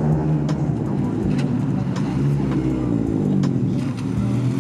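Car engine running steadily while driving, its pitch wavering slightly, with a few faint ticks.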